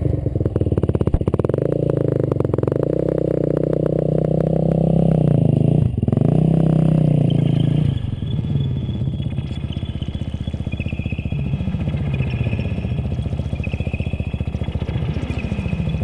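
Dirt bike engine running hard, its pitch rising and falling with the throttle, then dropping to a lower, quieter run about halfway through.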